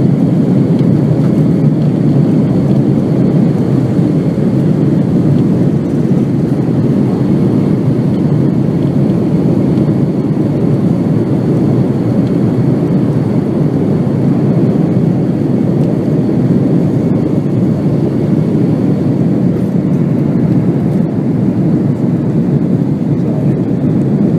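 Steady low roar of jet airliner engines, loud and unchanging, with no distinct whine.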